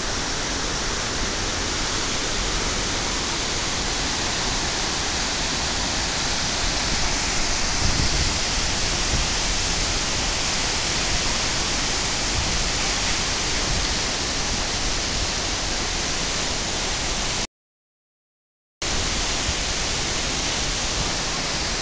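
Waterfall: a steady, even rush of falling water. The sound cuts out completely for about a second near the end, then returns unchanged.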